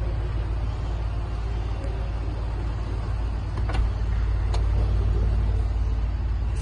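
Jaguar XF's 3.0 V6 turbodiesel idling with a steady low rumble. Two sharp clicks come a little past halfway.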